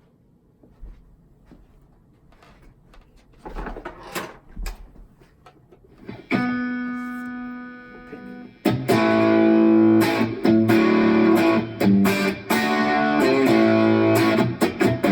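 1966 Fender Jazzmaster electric guitar played through a Matchless tube amp head and a Two Notes Torpedo Studio cabinet simulator, with reverb from the rack unit. After a few quiet seconds, one chord is struck about six seconds in and left to ring and fade. Steady playing starts about nine seconds in.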